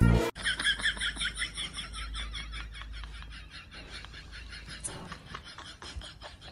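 Cat chattering at the swinging tail of a wall clock: a rapid run of short chirping clicks, about six a second, that grow fainter toward the end.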